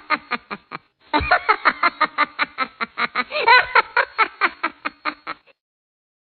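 A person laughing in a long run of rapid pulses, about five a second. The laughter breaks off briefly about a second in, picks up again, and stops shortly before the end.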